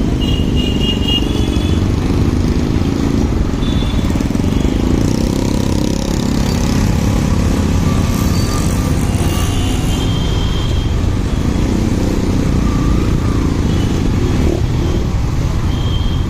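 Motorcycle being ridden in traffic: a steady, loud low rumble of engine and road noise, with faint sounds of other traffic coming and going.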